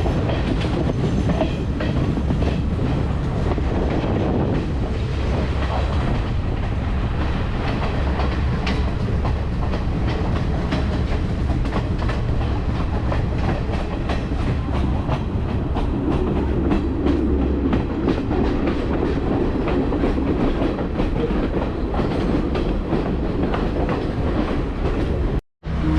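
Passenger train running along the line: a steady low rumble with a continual stream of clicks as the wheels go over the rail joints. The sound drops out for a moment near the end.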